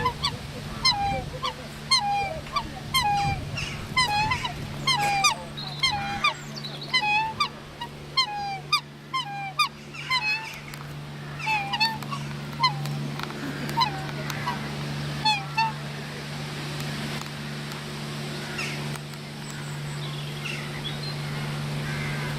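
Geese honking, many short calls in quick succession that thin out and stop a little over two-thirds of the way through. A steady low hum runs underneath.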